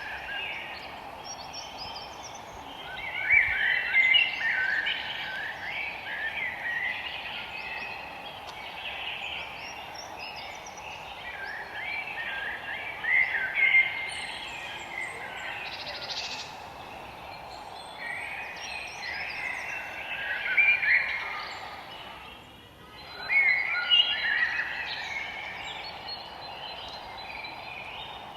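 Forest birds singing: bursts of quick chirping phrases every few seconds over a steady background hiss. The sound dips briefly about three quarters of the way through.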